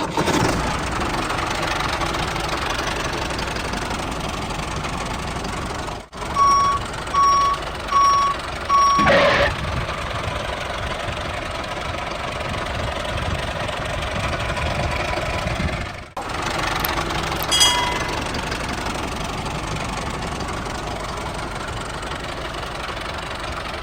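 Tractor engine running steadily, with four short reversing beeps about a third of the way in and a brief higher tone a little after the middle.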